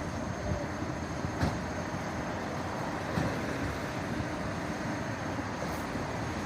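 Steady engine rumble of idling vehicles, with a couple of short sharp knocks, one about a second and a half in and another about three seconds in.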